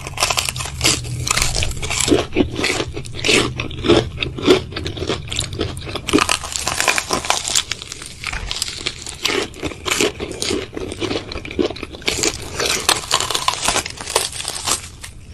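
Close-miked eating of crisp food: dense, irregular crunching and crackling bites and chewing.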